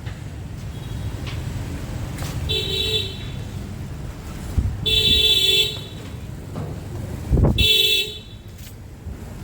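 Vehicle horn honking three times over steady street traffic: a short toot, then a longer one, then a third. Just before the last honk a passing engine surges.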